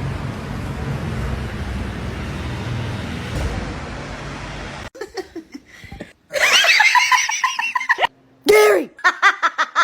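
A person laughing in a rapid run of short bursts, after a few seconds of steady background noise. A shout follows near the end.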